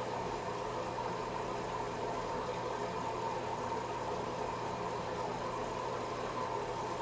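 Washing machine running with a steady, even mechanical hum and a constant low drone.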